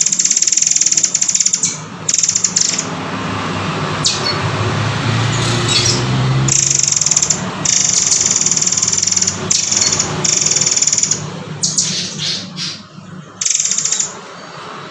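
Murai air (murai kopi) bird giving repeated harsh, high buzzing calls in runs of about half a second to two seconds, with short gaps between them, over a low rumbling hum.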